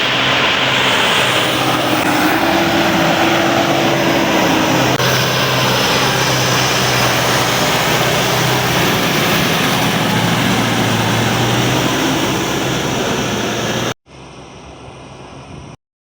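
FM World 70 hp tractor engine running steadily under load. The sound cuts off abruptly near the end, followed by a brief quieter sound and then silence.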